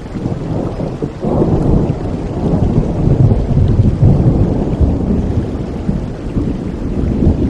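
Thunder rumbling over steady rain: the rumble swells about a second in, is loudest around the middle and dies away near the end.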